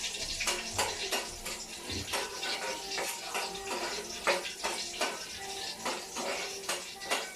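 Kitchen work: water running with a steady hiss while utensils and dishes clink and clatter in many short knocks.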